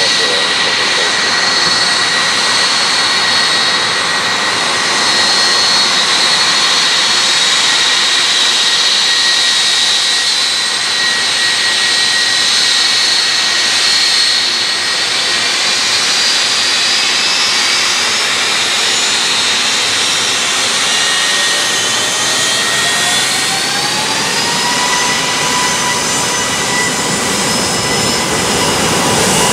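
Boeing 757-200's twin jet engines running loud and steady, a dense rush of exhaust noise with high whines over it. In the last several seconds the whines rise in pitch as the engines spool up toward takeoff thrust.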